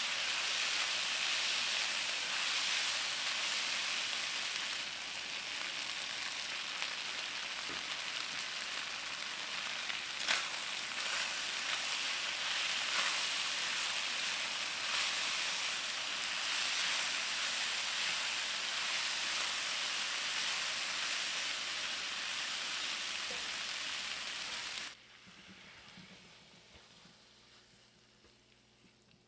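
Food sizzling steadily in a hot frying pan, with one sharp knock about ten seconds in. The sizzling stops abruptly near the end, leaving faint room tone.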